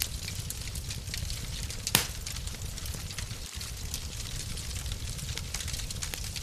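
Wood fire crackling in a fireplace: a steady low rumble of flames with scattered small pops, and one louder pop about two seconds in.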